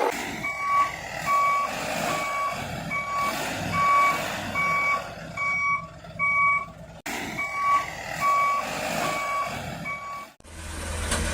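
Reversing beeper of a remote-control toy truck sounding a steady run of short, even electronic beeps, about one and a half a second. Near the end the beeping stops abruptly and a low running hum takes over.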